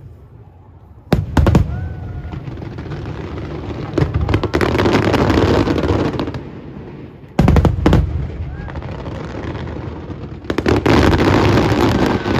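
Aerial fireworks shells bursting in a loud display: sharp bangs about a second in, around four seconds, near eight seconds and near eleven seconds, each followed by a long dense crackle of sparks.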